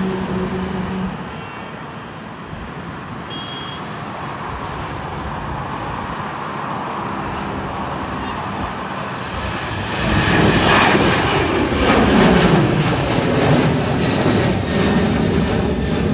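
Boeing 737 jet engines at takeoff thrust, a steady noise growing slowly louder, then about ten seconds in becoming loud as the jet passes, with a falling sweep in pitch.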